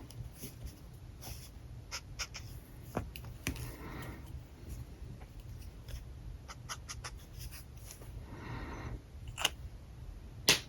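Alcohol markers working on paper: a few scratchy strokes about a second long, among small taps and clicks of the pens. Two sharper clicks come near the end.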